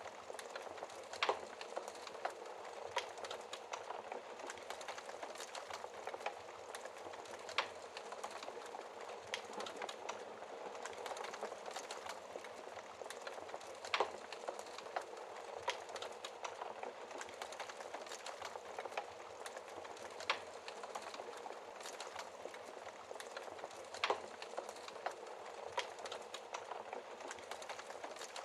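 Wood fire crackling in a fireplace: a steady hiss of burning with irregular sharp pops and snaps, a handful of them louder than the rest.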